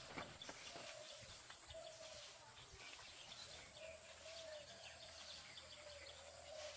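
Faint birdsong: a low, wavering call repeated several times, with a few small high chirps.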